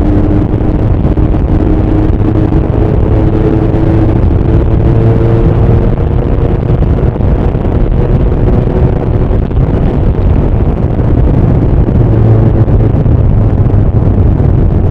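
Bimota SB3's Suzuki GS1000 air-cooled inline-four engine and exhaust running under way. The engine note rises gently over the first few seconds, then holds steady.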